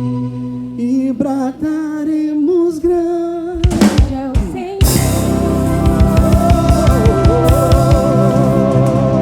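Live soul band playing: a sung melodic line over held keyboard and bass notes, then a drum fill about four seconds in and the full band with drum kit coming in on a steady beat under a long, wavering held melody.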